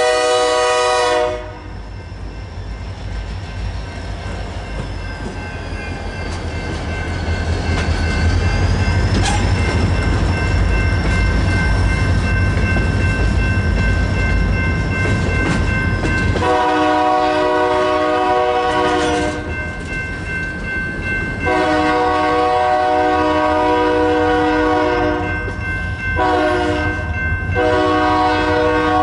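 BNSF SD40-2 diesel locomotives passing: a chime air horn blast ends about a second in, then the deep rumble of the EMD two-stroke diesel engines swells as they pull by. About halfway through, the horn sounds the grade-crossing signal: long, long, short, long.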